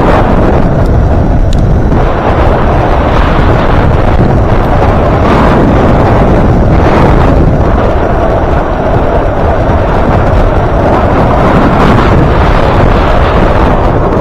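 Loud, steady wind rush on the microphone from riding a longboard at speed, over the hiss of its wheels rolling on wet pavement.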